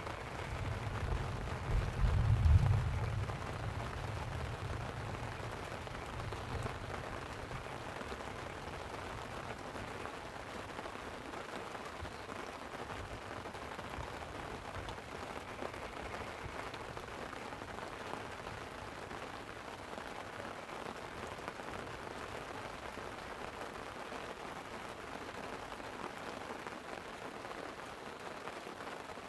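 Light rain pattering steadily on a tent. A low rumble of thunder builds in the first second or two, peaks about two seconds in, and dies away within a few seconds.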